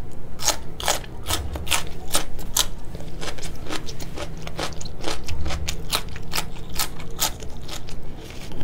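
Raw cucumber stick being bitten and chewed close to the microphone: a rapid, irregular run of sharp, crisp crunches.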